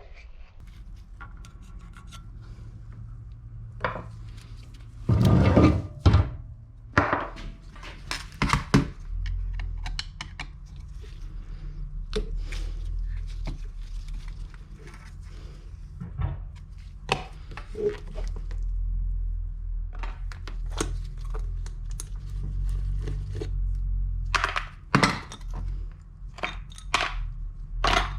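Workshop handling sounds of motorcycle parts and tools on a bench: scattered knocks, clinks and scrapes, with a cluster of loud knocks about five seconds in, over a steady low hum.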